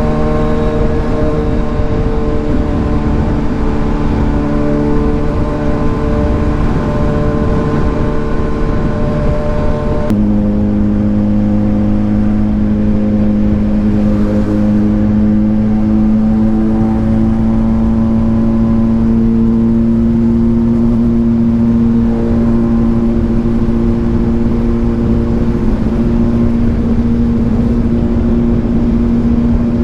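Kawasaki Ninja 1000SX's inline-four engine, through an AR aftermarket exhaust, running under way at steady revs. The engine note changes abruptly about ten seconds in, then climbs slowly.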